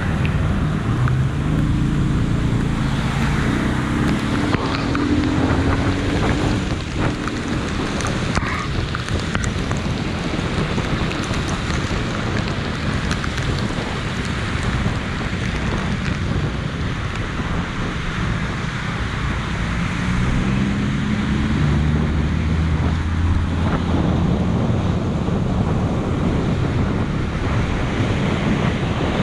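Heavy rain falling steadily in a hiss. A low engine hum rises and fades twice, about a second in and again about two-thirds through.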